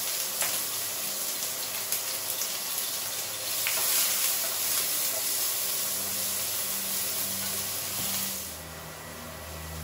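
Chopped onions sizzling in hot oil in a frying pan, a steady loud hiss with a few light taps, dying down near the end.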